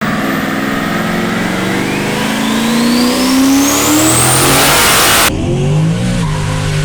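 Single-turbo Ford F-150's 5.0 V8 under full throttle, the engine note and a high turbo whine rising together for about five seconds. A little past five seconds the whine cuts off suddenly as the throttle is lifted, and the engine carries on at a lower, unsteady note.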